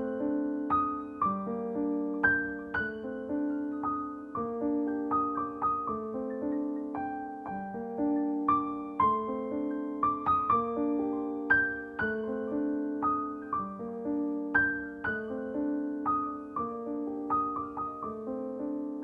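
Background piano music: a gentle, repeating pattern of single struck notes.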